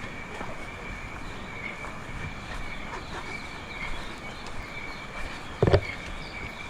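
Rainforest ambience: a steady high-pitched insect drone over a faint background hiss, with a single sharp knock a little over five seconds in.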